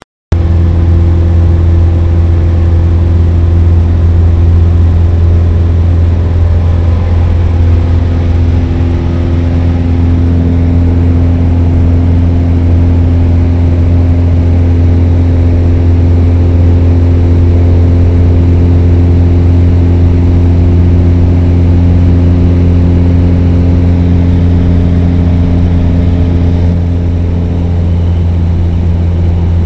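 A Cessna 172's piston engine and propeller give a loud, steady drone. It starts abruptly right at the start and holds an even pitch throughout.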